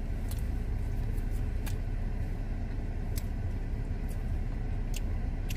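Steady low rumble of a car's engine running, heard inside the cabin, with scattered small clicks and smacks of chicken wings being eaten close to the microphone.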